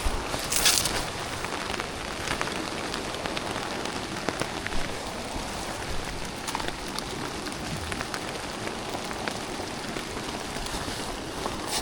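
Steady rain falling, an even hiss with scattered sharp taps of individual drops. A brief louder rustling hiss comes about half a second in.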